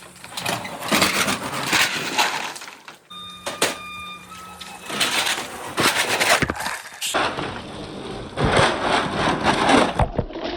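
Marbles rolling and clattering along a marble-run track in repeated runs that swell and fade. There is a short ringing tone about three seconds in.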